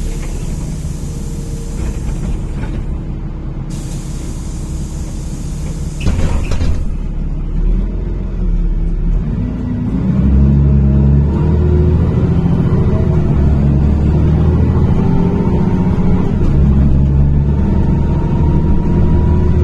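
NefAZ-5299 city bus from inside the cabin: the engine runs steadily with bursts of compressed-air hiss in the first few seconds and a sharp air release about six seconds in, then from about ten seconds the engine pulls harder and its pitch climbs slowly as the bus accelerates.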